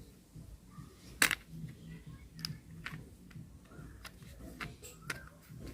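Scattered light clicks and taps of small hard parts being handled while a toy vehicle is being put together with screws, with one sharper click a little over a second in.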